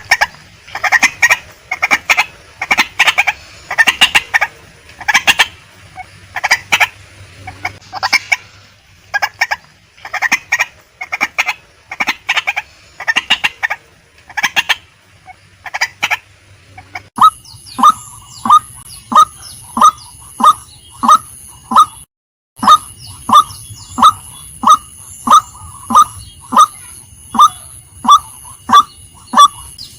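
Female white-breasted waterhen calling. At first it gives irregular clusters of harsh notes, then from a little past halfway a steady run of loud 'kwak' notes about two a second, broken by a brief dropout.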